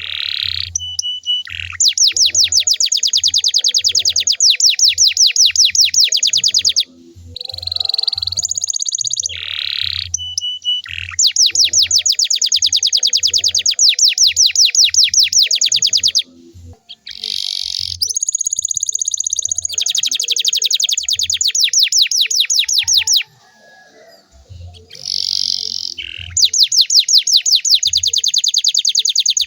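Canary singing long rolling trills, each a rapid run of many short notes repeated several seconds on end, broken by brief pauses and short warbled phrases between them. Faint low thumps sit underneath.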